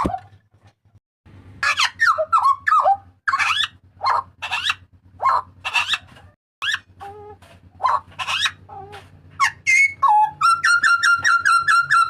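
Jagal papua butcherbird giving loud, short, sharply sliding whistled calls. Near the end these turn into a fast, even string of repeated notes on one pitch. A faint low hum runs underneath.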